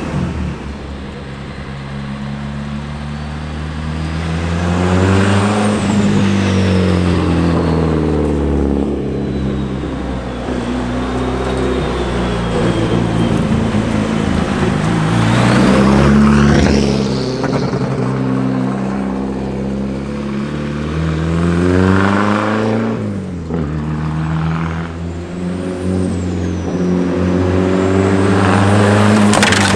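Freshly rebuilt turbocharged SR20 engine of a Nissan Silvia S15 drift car, revving up and easing off in several swells as the car is driven under varying loads to bed in its new piston rings.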